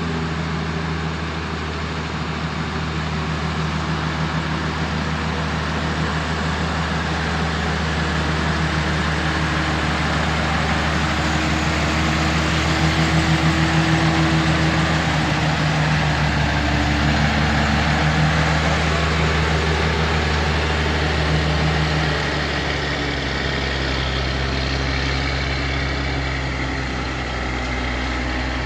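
Heavy truck's diesel engine running steadily, getting louder through the middle and easing back a little after about 22 seconds.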